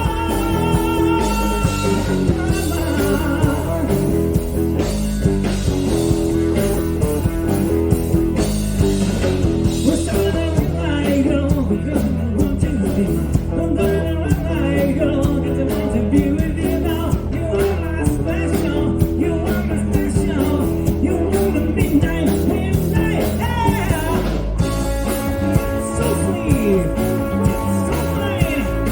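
Rock music: electric guitar over bass and a steady drum beat, with a voice singing over it.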